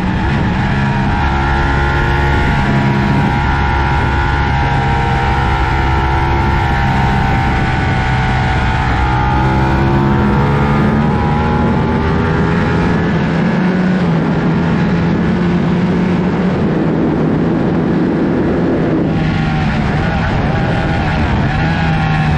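Ducati 1199 Panigale's Superquadro V-twin engine running hard at track speed, its pitch slowly rising and falling through the corners, with a sharp change in the engine note about nineteen seconds in. Wind rush is heard with it, from on the moving motorcycle.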